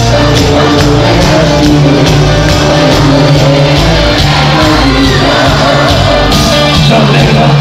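Loud live cuarteto band music with a steady, driving beat and a bass line, with some shouting over it.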